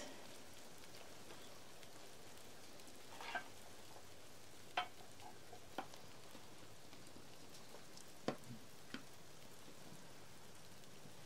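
Food frying in a pan on a camp stove, a steady sizzle, with a few sharp clinks of a utensil against the pan.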